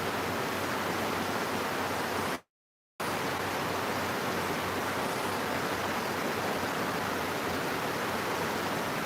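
Heavy rain falling steadily as a dense, even hiss, cut off completely for about half a second between two and three seconds in, then resuming unchanged.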